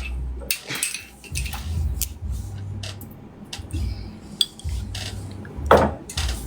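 Scattered sharp clicks and clinks of small hard objects being handled, over a low steady hum.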